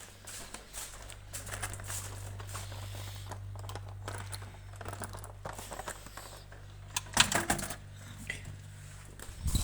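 Scattered small clicks, taps and rustles of hands handling things in a kitchen, with a few sharper knocks about seven seconds in, over a low steady hum.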